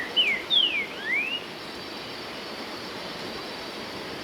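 Four short whistled bird notes in the first second and a half, three sliding down in pitch and the last sliding up, over the steady rush of a waterfall.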